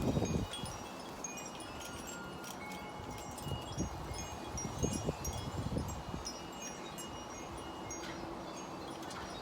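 Wind chimes ringing irregularly in a gusty wind, many short high tones at a few fixed pitches. Wind gusts rumble on the microphone at the start and again around the middle.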